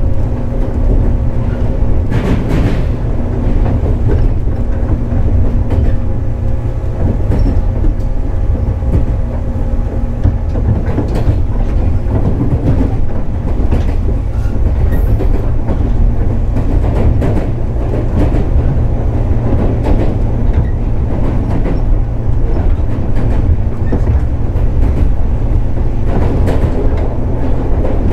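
Running sound from inside a 415 series 100-subseries electric multiple unit travelling at speed. There is a steady low rumble of wheels and running gear under a constant hum, with intermittent clacks as the wheels pass over rail joints.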